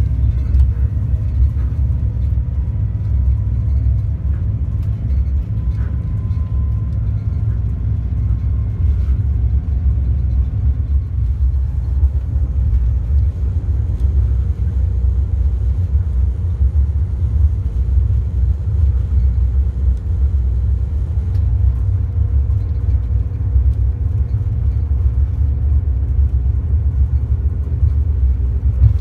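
Budd RDC rail diesel car of VIA Rail running along the track: a steady deep rumble of engines and wheels, with a few faint clicks.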